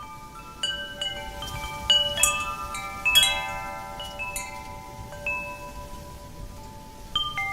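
Wind chimes struck irregularly by the wind, many clear notes overlapping and ringing on, the strikes busiest in the middle, over a low rush of wind.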